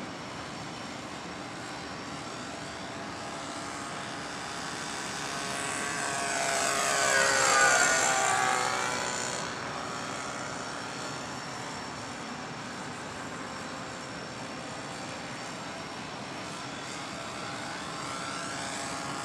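Radio-controlled model airplane's motor and propeller flying a low circuit. It swells as the plane passes close about eight seconds in, the pitch sweeping as it goes by, then fades, and grows louder again near the end.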